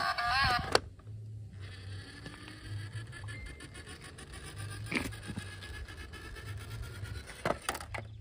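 A toy's electronic sung tune cuts off in the first second. After that, toy cars roll and are handled, with a low rumble, faint scraping and a few sharp plastic clicks.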